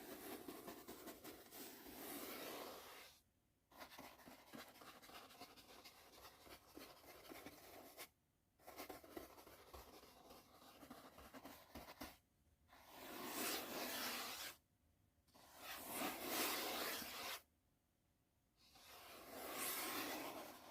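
Soft brush bristles sweeping in long strokes, a scratchy hiss broken by short pauses. The last three strokes, in the second half, are louder and swell up and down.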